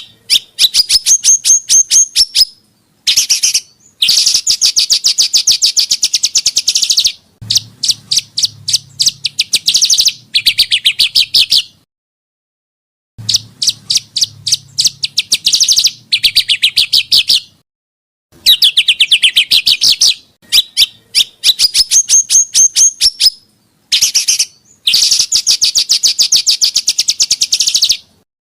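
Small songbird song made up of fast, high-pitched rattling strings of chirps, many notes a second. It comes in bursts of one to four seconds that cut off abruptly into silence and start again. This is spliced 'masteran' tutor song for teaching caged songbirds rapid 'tembakan' phrases.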